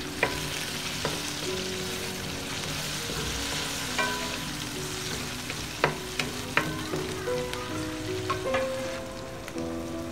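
Chopped tomatoes and onions sizzling in hot oil in an aluminium wok while a wooden spoon stirs them. The spoon knocks sharply against the pan several times, most often in the second half.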